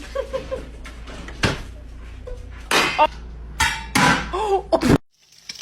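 A few sharp knocks or thuds, the loudest near the end, mixed with bursts of a person's voice; the sound cuts off abruptly about five seconds in.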